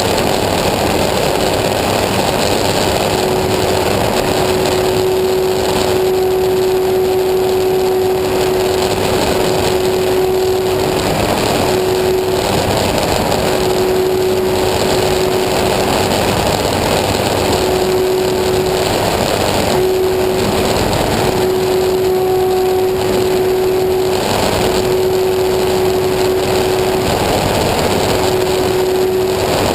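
Small engine running steadily and loudly, with a held hum that breaks off briefly every few seconds.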